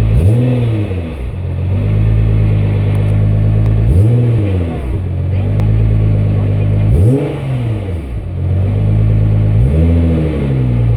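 Nissan GT-R R35's twin-turbo V6 idling, blipped four times with quick rise-and-fall revs about every three seconds, while checking for an abnormal noise that the owner traces to the transmission.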